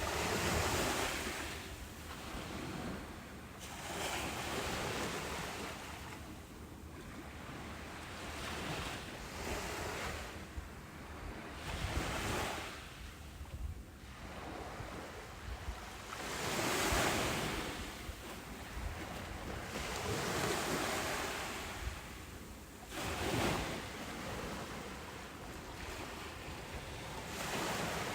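Ocean surf breaking on a beach, one wave after another every few seconds, each swelling into a broad hiss and then washing back.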